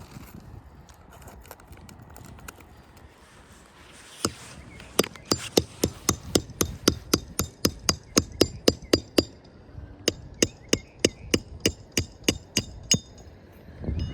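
Hammer blows on roofing nails, in two quick, even runs of about three or four strikes a second with a short pause between them, each blow ringing metallically.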